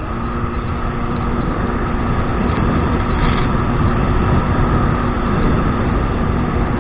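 Kawasaki 1200 jet ski's engine running steadily under way, with water and wind noise over it, growing slightly louder.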